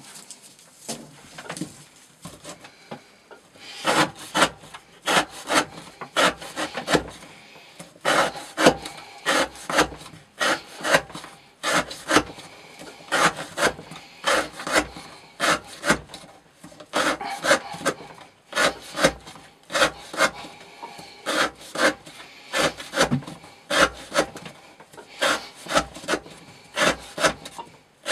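Knife blade slicing through rope again and again, one rasping stroke after another at about two a second with short pauses: repeated cuts of an edge-retention test.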